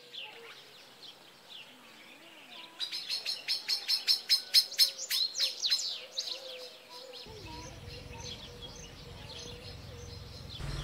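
Birds chirping, with a fast run of loud, rapidly repeated high notes from about three seconds in that lasts some three seconds, and scattered single chirps around it.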